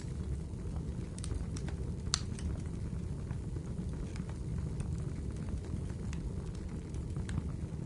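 Wood fire burning in a fireplace: a steady low rumble of flames with scattered crackles and pops of burning wood, the sharpest pop a little after two seconds in.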